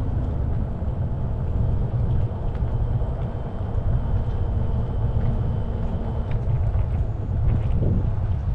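Wind rushing over the microphone of a rider on a moving e-bike: a steady low rumble.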